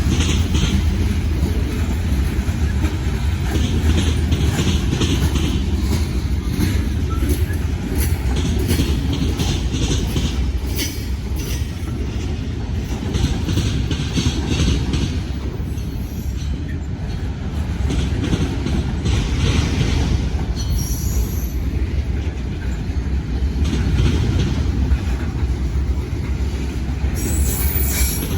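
Norfolk Southern freight train rolling past with a steady low rumble, its wheels clicking over rail joints. There are a few brief high wheel squeals, mostly in the second half.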